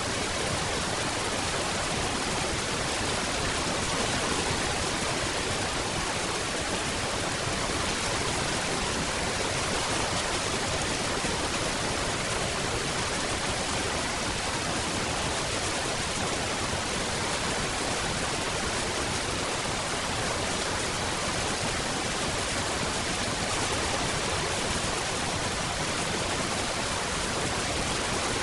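Steady rain, a dense even hiss with no separate drops standing out and no change in strength.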